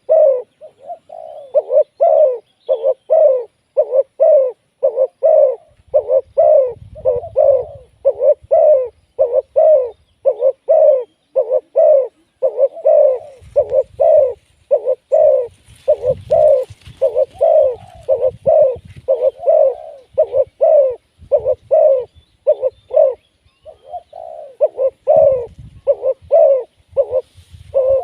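Spotted doves cooing, an unbroken run of low coos at about two a second. Faint low rumbles come in a few times.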